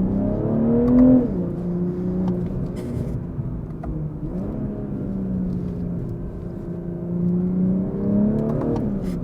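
BMW M340i's turbocharged 3.0-litre straight-six running through an AWE Touring Edition aftermarket exhaust as the car is driven. The engine note climbs and falls back about a second in, holds steady, then climbs and falls again near the end.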